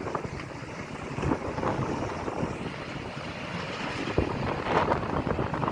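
Vehicle noise with wind buffeting the microphone, and a few brief knocks.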